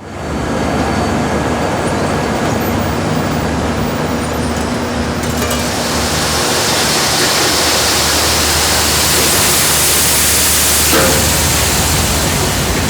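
Snack-factory machinery running: a loud, steady mechanical noise with a constant low hum under a hiss that grows brighter about five seconds in.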